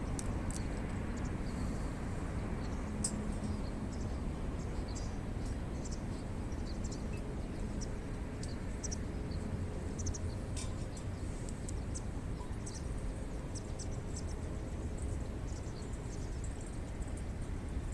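Wood campfire crackling: irregular small snaps and pops over a steady low rumble.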